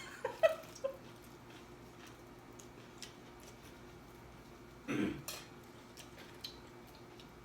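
Eating at a table: scattered light clicks of cutlery and dishes, with a short cough about five seconds in from someone reacting to very spicy food. A faint steady hum runs underneath.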